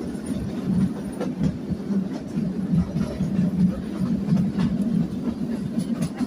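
Kalka–Shimla narrow-gauge toy train coach running along the track, heard from aboard: a steady low rumble with irregular clicking and clattering of the wheels on the rails.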